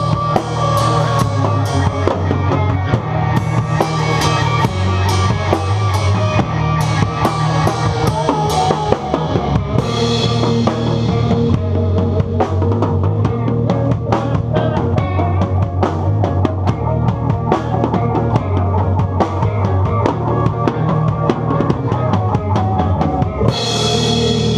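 Rock song with a full drum kit keeping a steady driving beat over bass and guitar. About a second before the end, a big ringing cymbal crash comes in.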